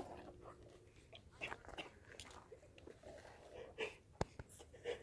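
Faint mouth sounds of someone tasting milk: scattered lip smacks and small wet clicks, with one sharper click a little after four seconds.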